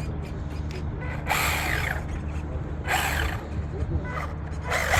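Small RC drift car's electric motor and gears whirring in three short bursts, each dropping in pitch as it spins down, over a steady low hum.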